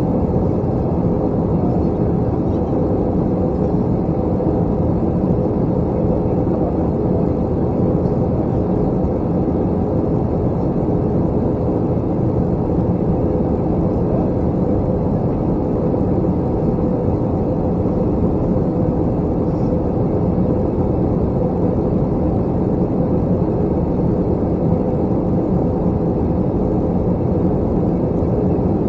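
Steady drone of engine and airflow noise inside an Airbus A321 airliner cabin, heard at a window seat, unchanging throughout.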